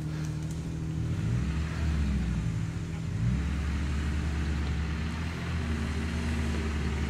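Off-road 4x4's engine revving under load, the revs swelling and rising about a second in and again about three seconds in.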